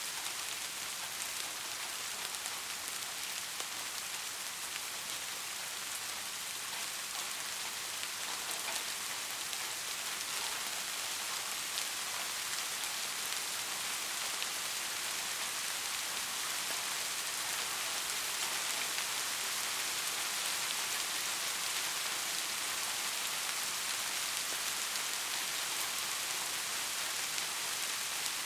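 Steady rain: an even hiss of countless fine drops, slowly growing a little louder, with no thunder.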